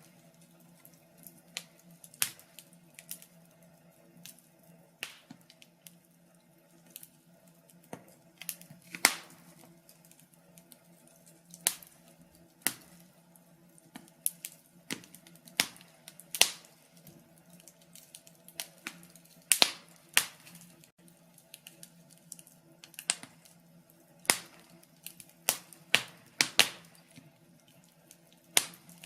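Wood fire crackling in a fireplace: irregular sharp snaps and pops, some loud and some faint, at times several a second, over a faint steady low hum.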